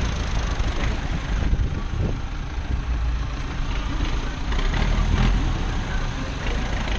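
Motor vehicle engine running steadily, a low rumble with even road noise over it.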